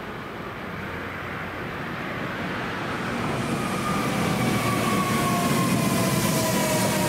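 Electric train drawing near and growing louder, with a rushing noise building up and a whine that slides slowly down in pitch from about three seconds in.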